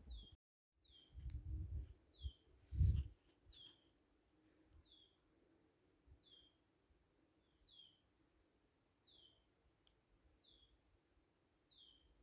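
A bird repeating a high two-note call, a steady note followed by a falling one, about every second and a half. Low rumbling thumps come between one and three seconds in, the loudest near three seconds, and the sound drops out completely for a moment just under a second in.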